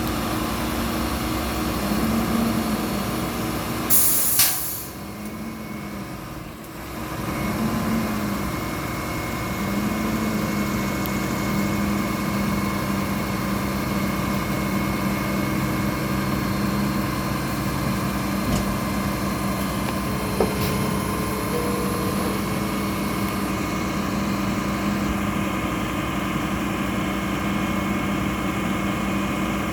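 Mack LR garbage truck's diesel engine running, its revs rising and falling back three or four times and then holding higher for several seconds. There is a sharp, loud air-brake hiss about four seconds in.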